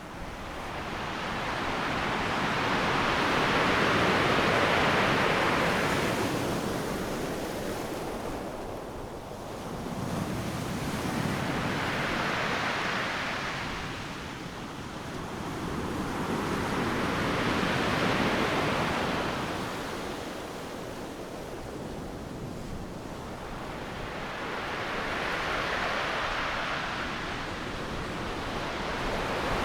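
Ocean surf: waves breaking and washing up a sandy beach in slow surges, about four swells of rushing noise that rise and fade, with a little wind on the microphone.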